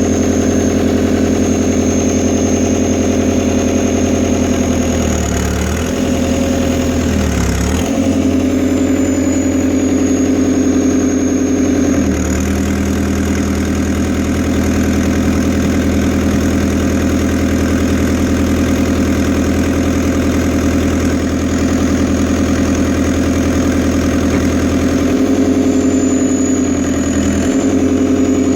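Fiat Hitachi FH150 excavator's diesel engine running steadily, with a steady high whine over it. The engine speed dips briefly twice about five to eight seconds in, shifts again around twelve seconds, and once more near the end.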